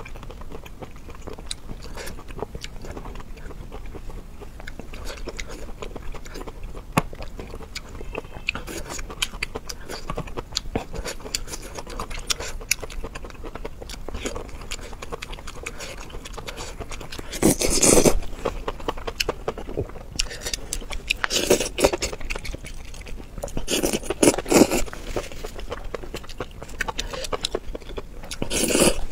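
Close-miked mouth sounds of eating sauced sausages wrapped in enoki mushrooms: steady wet chewing and biting, with four louder, longer bursts about halfway through and near the end.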